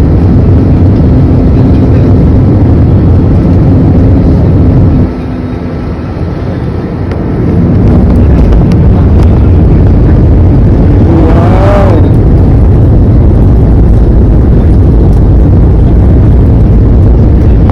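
Loud, steady rumble of an airliner's jet engines and rushing air heard inside the passenger cabin on the landing approach. It eases for a couple of seconds about five seconds in, then rises again, with a brief wavering tone near twelve seconds.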